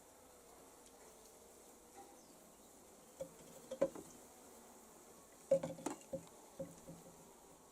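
Honeybees buzzing in a faint, steady hum, with a scatter of short knocks and clinks starting about three seconds in; the loudest come a little past halfway.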